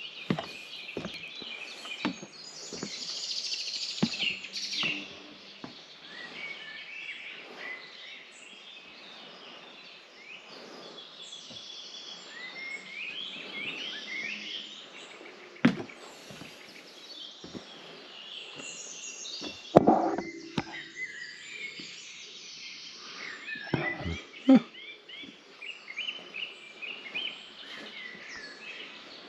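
Several birds singing and chirping with busy, overlapping warbles and short calls. A few sharp knocks break in, the loudest about halfway through and twice more in the second half.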